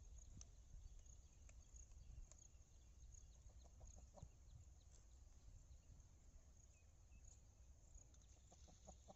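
Near silence: a faint low rumble, with a few short, faint bird calls in two brief runs, about four seconds in and again near the end.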